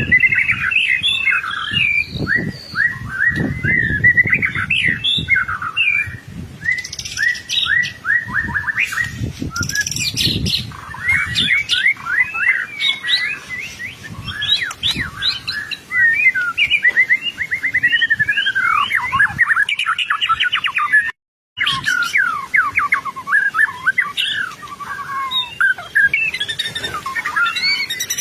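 White-rumped shama (murai batu) singing continuously in a rapid stream of varied whistled and chattering phrases. The song breaks off for a moment about three quarters of the way through.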